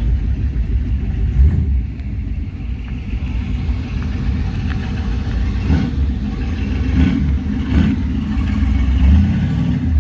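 Low rumble of a classic car's engine running, rising and falling unevenly.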